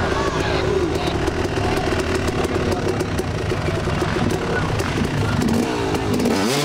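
Off-road motorcycle engine running steadily at idle, with a few voices over it.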